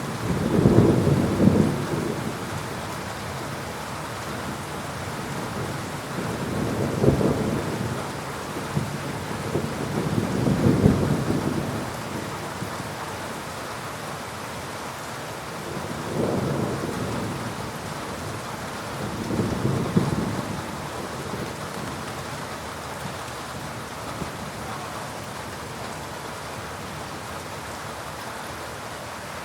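Heavy rain falling steadily through a thunderstorm, with rolling thunder: five low rumbles swell and fade within the first twenty seconds, the strongest near the start and about ten seconds in.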